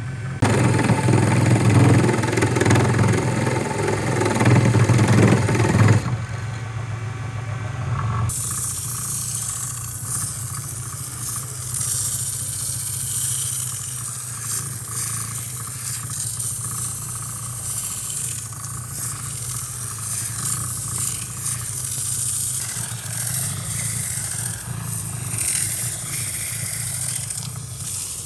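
A machine motor running steadily, louder with broad noise for the first six seconds, then settling into a lower, steady run with a hiss.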